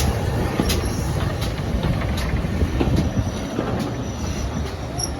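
Train running along the track, a steady rumble with the wheels clicking over rail joints about every three-quarters of a second, slowly getting quieter.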